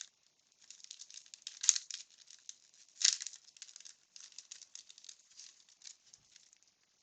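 Paper crinkling and cards rustling and flicking against each other as a freshly opened 1992 Bowman baseball wax pack is handled, with irregular soft crackles and a couple of louder rustles.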